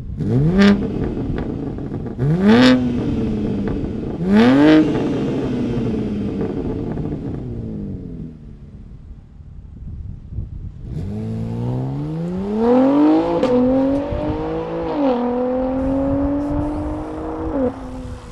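BMW G81 M3 Touring's twin-turbo inline-six through an equal-length midpipe and M Performance exhaust. It gives three quick revs, each rising sharply and falling away, then after a short lull a longer pull whose pitch climbs steadily, dipping briefly at about three gear changes.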